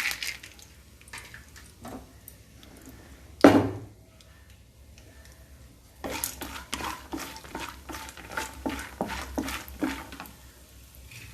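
Spatula stirring peanuts and roasted gram in a kadai, scraping and clattering against the pan. There is one loud knock about three and a half seconds in, then a run of quick scrapes from about six seconds on.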